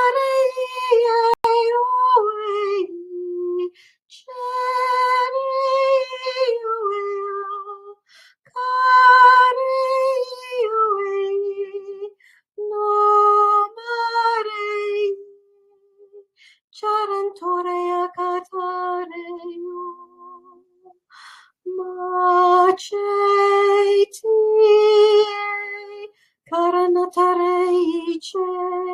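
A woman's voice singing long wordless tones in slow phrases of a few seconds each, with short breaths between them, each phrase stepping down a note or two at its end.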